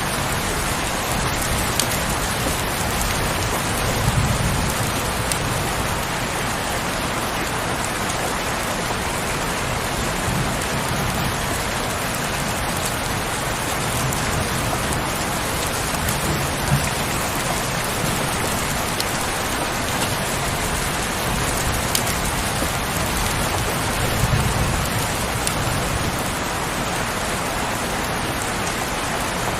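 Steady heavy rain, a dense even hiss, with a few soft low swells underneath, the strongest about four seconds in and again near the end.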